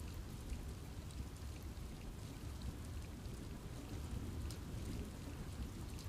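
Steady rain falling through trees: a continuous low wash with scattered individual drops ticking on top.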